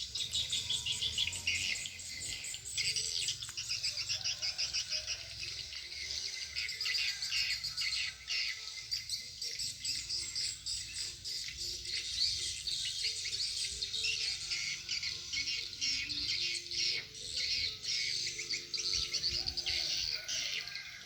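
Swiftlet calls: a dense, continuous chatter of rapid, high chirps.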